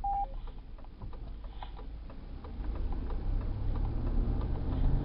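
A car's low steady road rumble, with its engine note rising over the second half as it picks up speed. A short beep at the start, typical of a radio repeater's courtesy tone after a station unkeys, and scattered light clicks.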